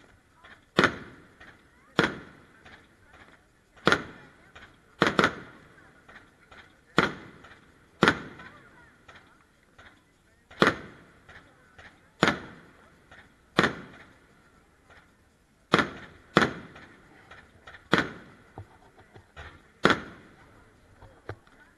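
Aerial firework shells bursting overhead: about fifteen sharp bangs, one every one to two seconds and sometimes in quick pairs, each fading in a short echo.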